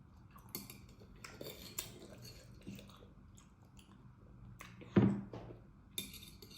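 Close-miked eating sounds: a fork clicking and clinking against a plate amid chewing of chewy potato balls, with one louder knock about five seconds in.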